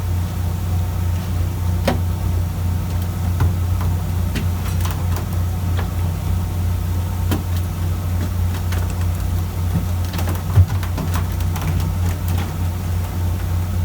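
Fishing boat's engine running steadily with a low drone, with scattered light clicks and knocks on deck and one louder knock near the end.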